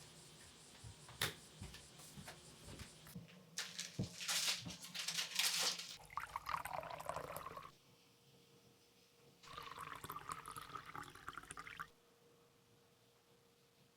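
Water pouring and splashing in two stretches, the first about four seconds long and the second about two and a half, after a few light knocks.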